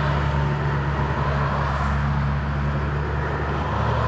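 A motor vehicle's engine running steadily with a low hum, with road noise.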